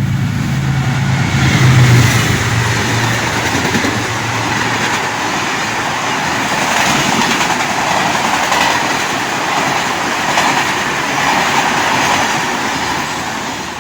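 Train running on the rails, a steady loud rumble and rattle of the cars; a low hum in the first few seconds fades away.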